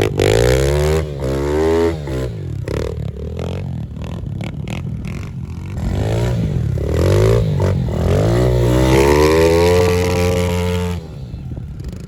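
Pit bike engine revving hard, its pitch climbing and dropping several times as the rider accelerates and shifts, then falling away sharply near the end.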